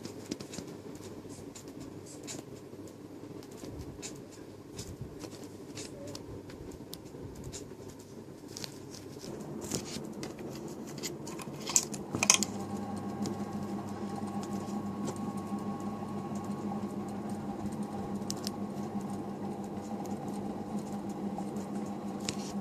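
Ceiling fan running with a steady motor hum and scattered light clicks and ticks. About halfway through a sharp click is heard, and the hum becomes louder and steadier, with clear held tones.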